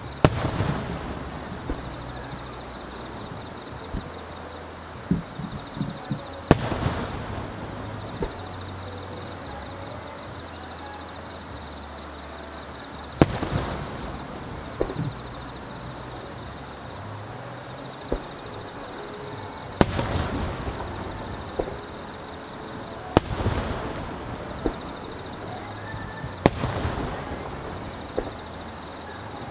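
Aerial firework shells bursting: six loud booms a few seconds apart, each followed by crackling, with smaller pops between them. A steady high-pitched insect chirring runs underneath.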